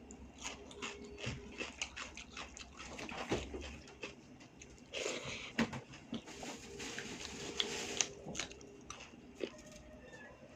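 Close-up eating sounds: chewing, biting and wet mouth clicks and smacks as someone eats rice with dal and vegetable curries, in an irregular run of short sounds.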